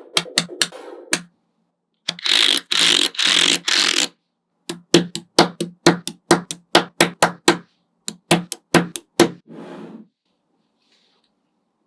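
Small magnetic balls snapping together: a few clicks, then three short stretches of rattling as a clump of balls is rubbed and rolled, then a steady run of about four sharp snaps a second as balls are set in place one by one.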